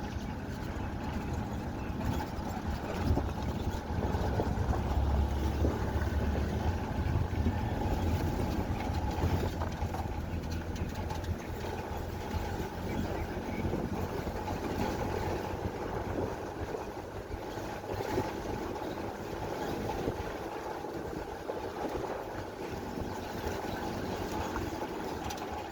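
Steady vehicle running noise heard from inside, a low engine and road rumble that is heavier in the first half and eases later on.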